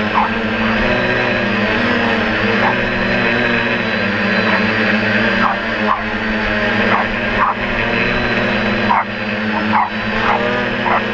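DJI F450 quadcopter's electric motors and propellers humming steadily, while a small dog yaps in short, separate barks again and again.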